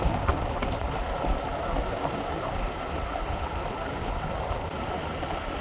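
Small motorbike ridden along a gravel road: a steady rough noise of engine, tyres and wind, with no change in pace.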